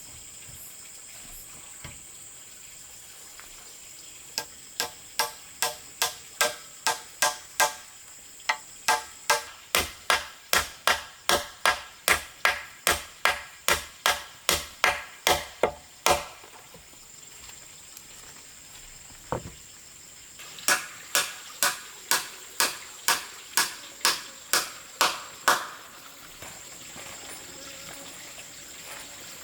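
Hand tool striking wood in quick, regular blows, about two a second: a long run of about two dozen strikes, one lone blow, then a shorter run of about ten. A steady high insect drone underneath.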